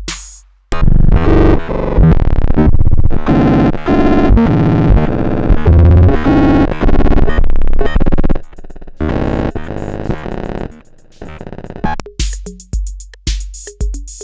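Electronic music recorded direct: a fast, jumbled run of short pitched synthesizer notes, with sharp drum-machine-like clicks and low thumps in the opening half-second and again in the last couple of seconds.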